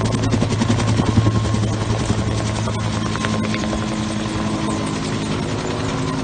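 Bell 210 (UH-1) helicopter running, its rotor beating in a fast, even rhythm over a steady engine hum. The rotor beat is strongest near the start and eases a little toward the end.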